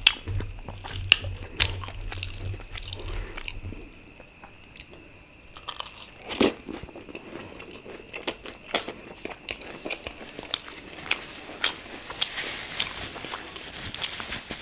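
Close-miked eating sounds: chewing, biting and wet mouth clicks, irregular, with a louder smack about six and a half seconds in, as luchi with potato curry is eaten.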